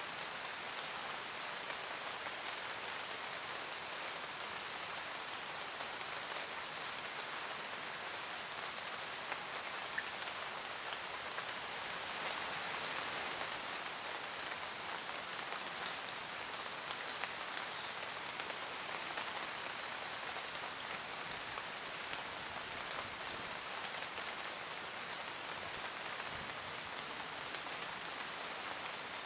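Steady rain falling in a forest, an even hiss with scattered drop ticks.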